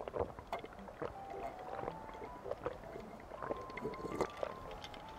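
Close-miked chewing and mouth sounds of someone eating grilled beef tripe: short, irregular clicks and small wet noises. A faint, simple melody of single notes plays underneath.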